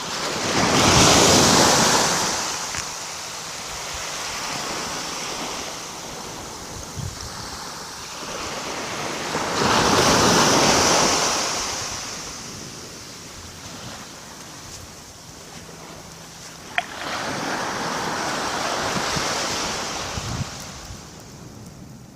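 Calm sea: small waves breaking gently on the shore three times, each a swelling wash that fades into a quieter hiss before the next. A single short click comes just before the third wave.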